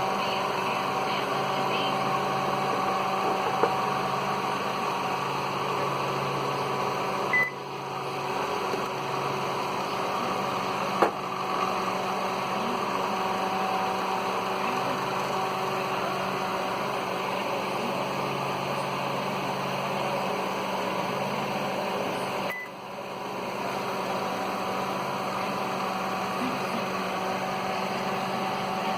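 Steady electrical hum from a microwave oven control board running on a bench tester. A short high beep sounds twice, about fifteen seconds apart, and each is followed by a brief dip in the hum. A single sharp click comes near the middle.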